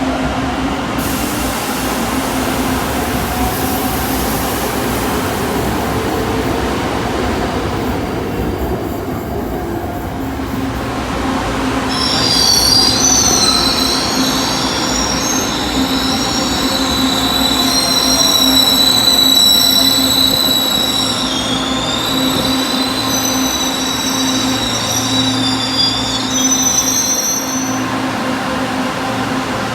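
LRT Line 2 electric train running with a steady low hum, its steel wheels squealing against the rails in several high, wavering tones from about the middle of the stretch until near the end.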